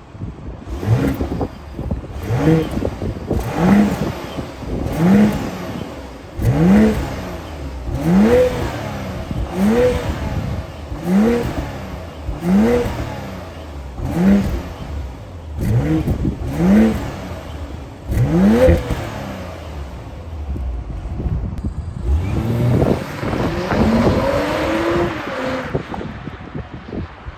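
2023 BMW X7 40i's 3.0-litre turbocharged inline-six exhaust, revved repeatedly while standing: about a dozen quick blips, each rising and falling in pitch, about one every second and a half, then one longer held rev near the end.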